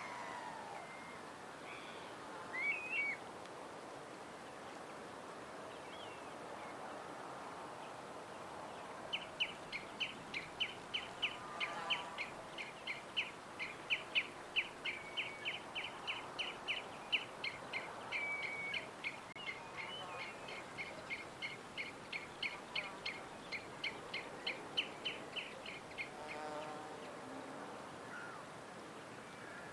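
Wild songbirds calling outdoors over a steady background hiss. A couple of short chirps come early. About nine seconds in, one bird starts a long, fast series of short high notes repeated evenly several times a second, which stops near the end, while other birds give lower calls now and then.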